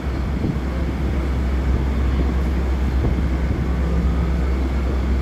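Steady low rumble and hum of idling railway equipment, unchanging throughout.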